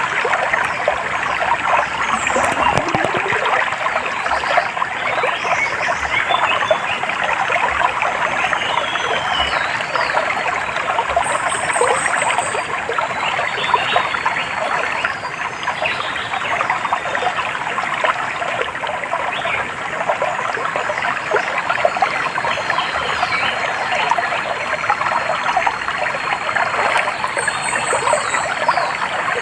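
Small stream trickling and babbling steadily over stones, with a few faint high bird chirps above the water now and then.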